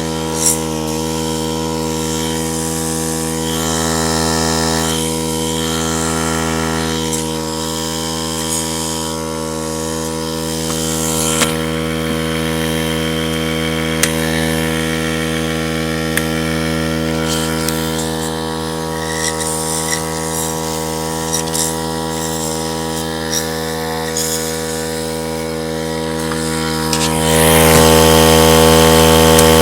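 Compressed air blowing through the oil passages of a BMW M62B44TU V8 crankshaft: a hiss over a steady hum, with a few clicks, getting clearly louder near the end.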